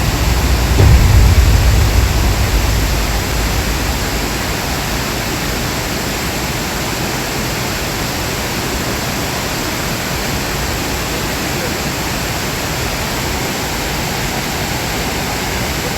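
Steady roar of a large waterfall, a dense even rush of falling water. A heavier low rumble during the first few seconds fades away.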